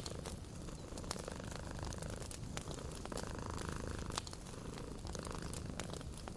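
A cat purring steadily, with a wood fire crackling in scattered sharp pops.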